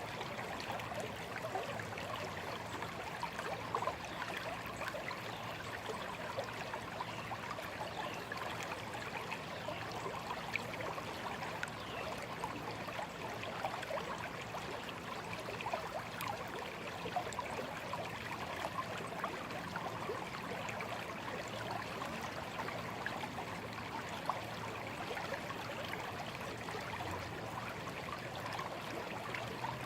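Small stream flowing steadily over stones, a continuous babble and trickle of water.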